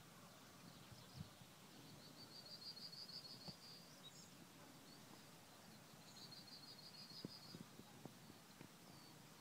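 Near silence with a small bird's faint, high trill of rapid notes, heard twice, each lasting about a second and a half.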